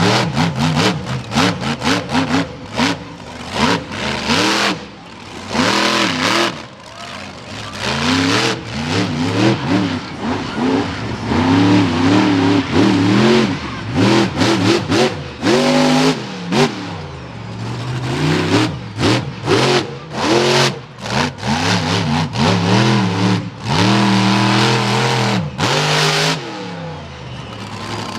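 Monster truck engine revving hard, its pitch repeatedly rising and falling as the throttle is worked, with many short sharp bangs in between.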